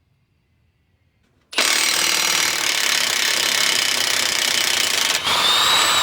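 Impact wrench with a 30 mm socket hammering a front CV axle nut loose. It starts suddenly about a second and a half in, runs steadily with a short dip near the end, then rises to a higher whine just before it stops.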